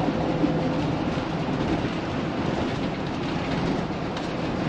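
Steady road rumble and running noise inside the living area of a moving Thor Magnitude Super C motorhome, with a low hum under it.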